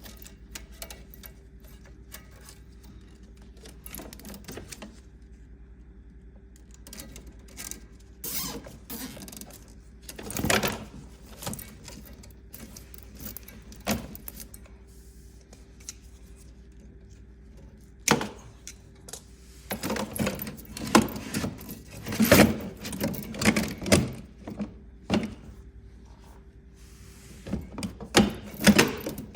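Scattered metallic clinks, knocks and rattles of hand tools and metal parts being handled during refrigerator repair work, sparse at first and busiest in the second half. Under them a faint steady hum that stops near the end.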